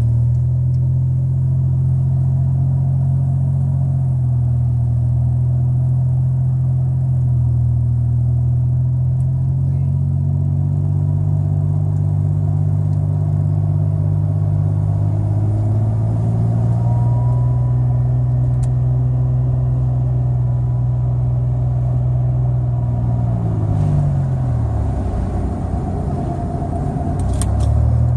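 Steady low engine drone of a moving road vehicle. Near the end its pitch falls and then climbs back up.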